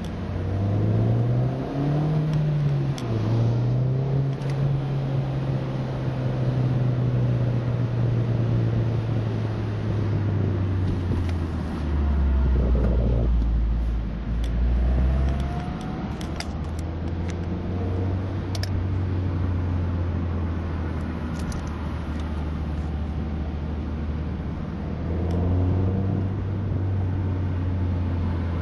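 Mini Cooper S (R56) 1.6-litre turbocharged four-cylinder through a John Cooper Works rear silencer, pulling up through the revs with a brief dip like a gear change. It holds steady for several seconds, then drops back, runs at low revs and picks up again near the end.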